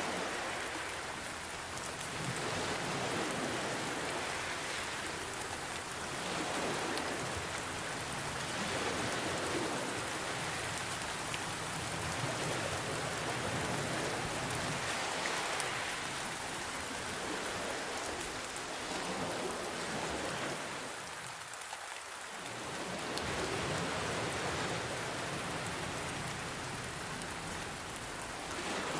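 Steady rain hissing, mixed with ocean waves washing in, so that the sound swells and ebbs every few seconds.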